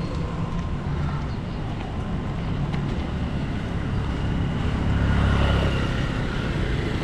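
Street traffic noise, with a vehicle's rumble growing louder about five seconds in.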